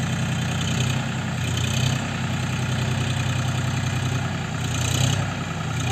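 John Deere 5045D tractor's three-cylinder diesel engine running steadily, with two brief swells in loudness, about two seconds and five seconds in.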